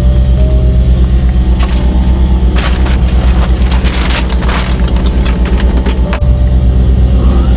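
Semi-truck diesel engine idling, heard loudly from inside the cab as a steady low pulsing rumble that dips briefly about six seconds in. Over it, from about a second and a half to five seconds in, comes a stretch of close rustling and sharp clicks.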